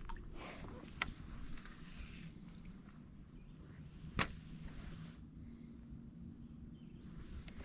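Two sharp, brief clicks, one about a second in and a louder one about four seconds in, over a faint steady high hiss.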